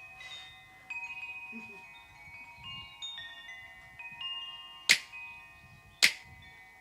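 Song intro of chime-like, bell-toned notes struck one after another, each ringing on and overlapping the next. Two sharp percussive clicks about a second apart come in near the end, starting a beat.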